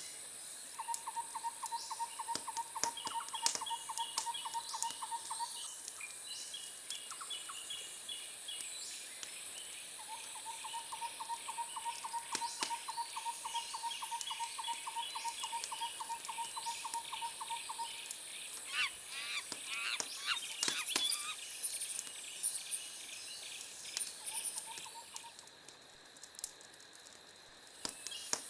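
Wood fire crackling with scattered sharp pops over a layer of insects and birds: a steady high insect buzz, rapid chirping trills that come and go for several seconds at a time, and a few sweeping bird calls about two-thirds of the way through.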